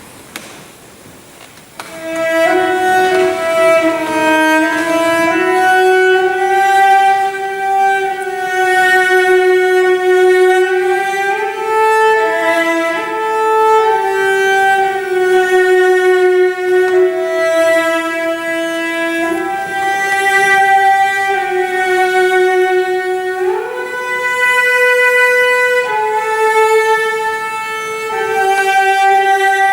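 Slow violin melody of long held notes that glide from one to the next, coming in about two seconds in after a brief quiet stretch with a couple of faint knocks.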